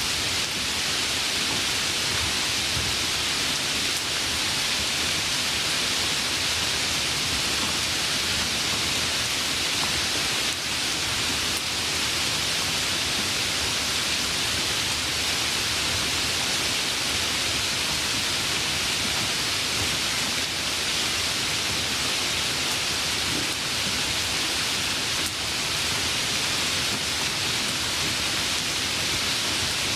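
Steady, even rainfall hiss with no distinct drops or thunder.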